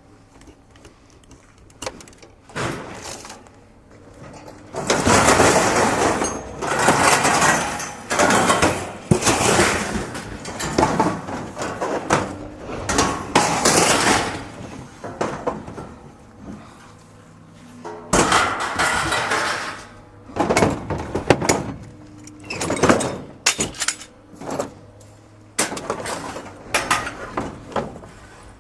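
Scrap metal being unloaded and tossed onto a pile: a run of irregular crashes, clangs and clatter, each lasting about a second, some louder than others.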